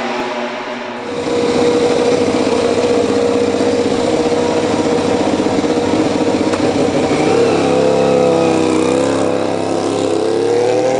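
MotoGP racing motorcycle engine running at high revs, its note holding steady and then rising and falling in pitch over the last few seconds.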